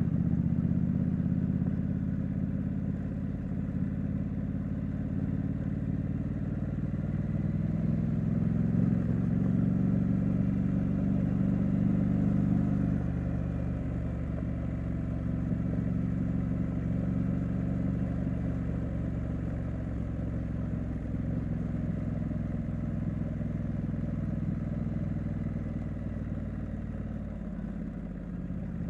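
Triumph Street Scrambler's 900cc parallel-twin engine and exhaust running on the move. The engine note drops about thirteen seconds in and dips again briefly near the end.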